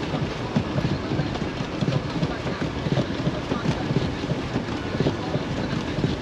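Car driving over snow-covered road: a steady rumble of tyres and road noise with frequent irregular knocks and thumps, heard from inside the cabin.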